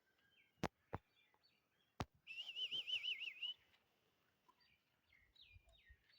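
Faint bird chirps with a loud warbling trill about two seconds in. Three sharp clicks come in the first two seconds.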